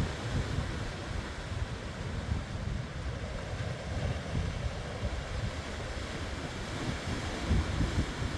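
Ocean surf washing in, with gusty wind buffeting the microphone; the gusts are strongest near the end.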